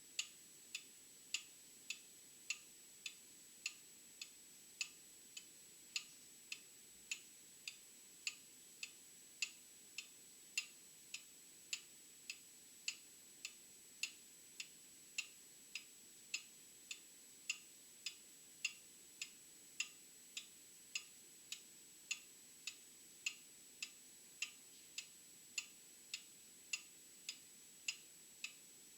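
Old clock ticking steadily, a little under two ticks a second, the ticks alternating louder and softer in a tick-tock. A faint steady high-pitched tone runs underneath.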